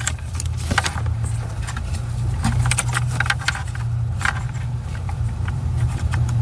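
Plastic wiring-harness connectors clicking and rattling as they are unplugged by hand from a car's HMI radio module, a series of sharp clicks over a steady low hum.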